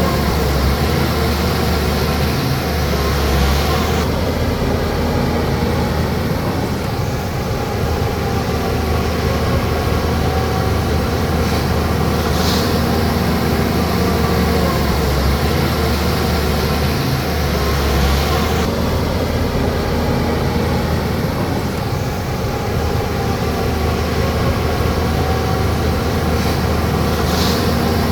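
Bulldozer's diesel engine running steadily under load, its pitch swinging gently up and down as it pushes soil.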